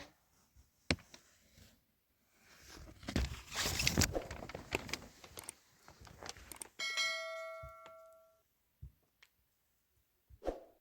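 Rustling, crackling noise, then a single bell-like ding about seven seconds in that rings out for about a second and a half, with a few scattered knocks.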